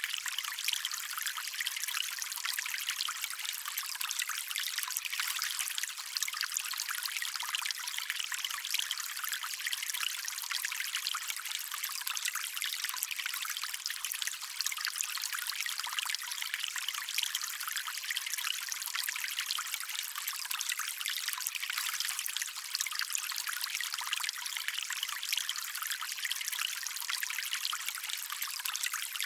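Shallow stream water running and trickling over stones, a steady bright rush of fine splashes with almost no deep rumble.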